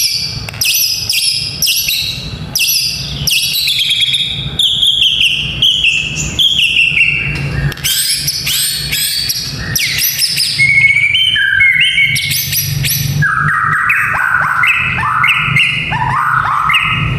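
White-rumped shama (murai batu) singing in fast runs of short repeated notes, each run stepping down in pitch. In the last few seconds it shifts to lower, quicker chattering phrases.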